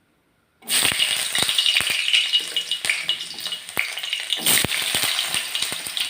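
Potato pieces frying in a little hot oil, sizzling loudly, with the clicks and knocks of a spatula stirring them in the pan. It starts abruptly about half a second in, after a moment of silence.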